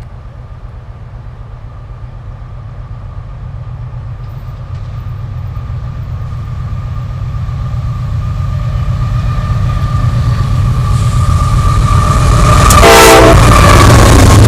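A GE AC6000CW diesel-electric locomotive's 16-cylinder engine rumbling ever louder as it leads a train toward the listener, with a steady high tone above the rumble. Near the end comes a short, loud burst as the locomotive draws close.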